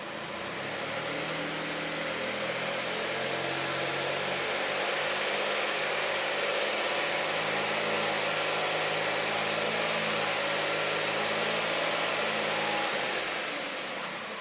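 Mitsubishi i's 660 cc three-cylinder engine revved up and held at a raised, steady speed for about ten seconds, then dropping back toward idle near the end.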